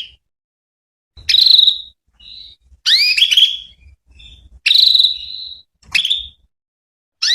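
Female canary calling: a series of short, rising chirped call notes, about five loud ones with fainter notes between, separated by brief silences. This is the female's call that draws male canaries to answer.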